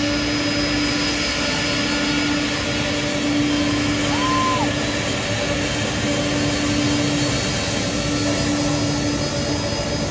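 Aircraft engines running with a steady drone and even hiss, a constant low hum throughout. A short whistle-like tone rises and falls about four seconds in.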